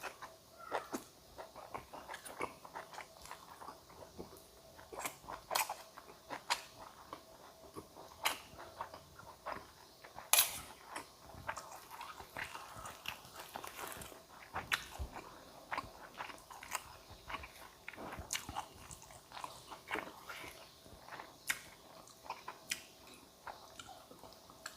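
A person chewing and biting food, with many irregular sharp crunches and mouth clicks; the meal is Thai cucumber salad (tam taeng) with boiled eggs and Isan sausage.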